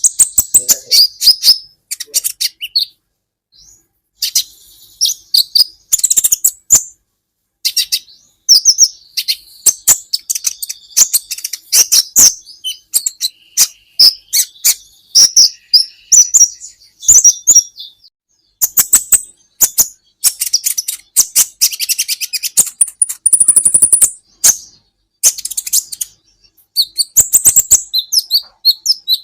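Kolibri ninja sunbird singing a fast, high-pitched twittering song of rapid sharp chirps and trills, in bursts with short pauses between them.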